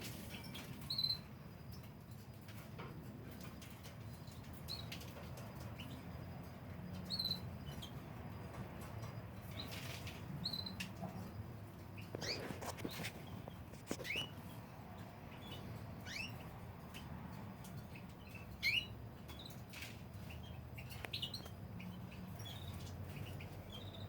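Canaries chirping: scattered short high peeps and several quick rising chirps, over a steady low hum.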